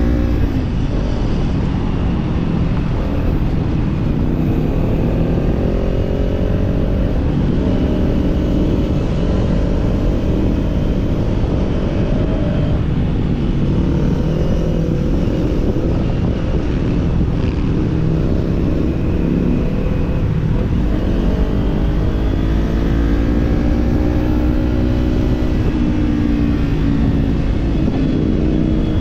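Kawasaki Z400/Z650 parallel-twin motorcycle engine with an aftermarket slip-on exhaust, running on the road, its pitch climbing and dropping several times as the throttle opens and closes, over steady wind rush.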